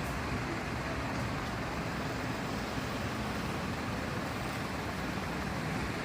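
Steady low rumble of vehicle engine and traffic noise, unchanging throughout, with no distinct knocks or calls.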